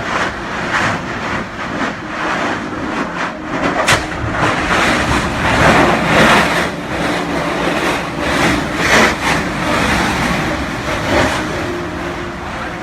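Kilauea lava fissure erupting: a continuous loud roar of venting gas and lava, broken by repeated sharp pops and bangs of bursting explosions, the sharpest about four seconds in.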